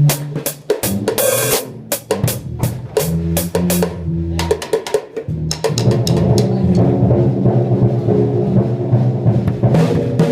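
Loud drum kit being played: rapid snare and bass drum strokes with cymbal hits. About halfway in, the playing turns denser and steadier, with held low notes from another band instrument underneath.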